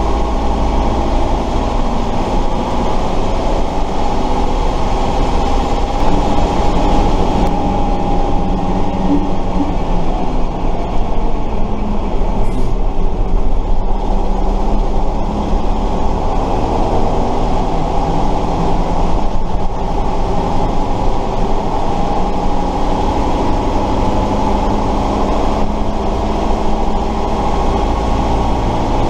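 Tatra 138 fire truck's air-cooled V8 diesel engine running under way, heard on board as a loud, steady drone whose pitch drifts up and down a little.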